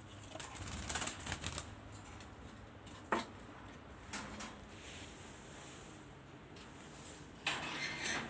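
Budgies moving about and feeding in their cage: clusters of quick taps and rustles near the start and again near the end, with one sharp tap about three seconds in.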